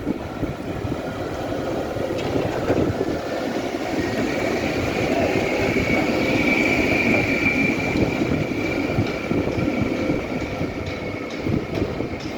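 Tram running on its rails, with a high steady tone that grows louder around the middle and then fades.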